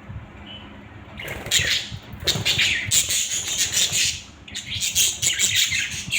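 Pet budgerigars chattering in two long, busy stretches of high, rasping chirps. The first starts about a second in; the second follows a brief pause a little past the middle.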